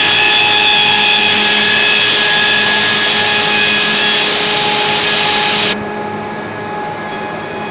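Quadro 516 four-sided moulder running, a steady motor and cutterhead hum under a loud cutting hiss. About six seconds in the hiss cuts off suddenly and the machine runs on with a quieter, steady hum.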